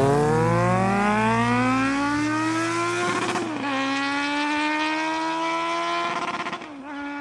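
Motorcycle engine accelerating hard, its pitch climbing, then dropping sharply twice, about three seconds in and near the end, as it shifts up through the gears.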